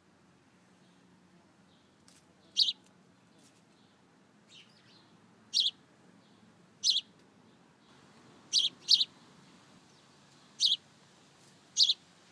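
Small wild songbird giving short, high chirps, about seven in all, spaced a second or more apart, with a quick pair of chirps about two-thirds of the way through.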